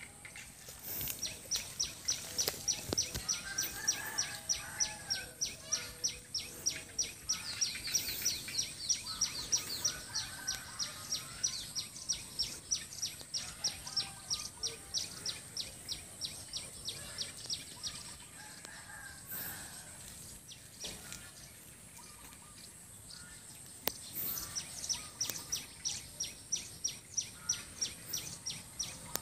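Birds calling: one bird repeats a sharp, high chirp about three to four times a second in long runs, breaking off for several seconds about two-thirds of the way through before starting again. Softer warbling calls sound underneath.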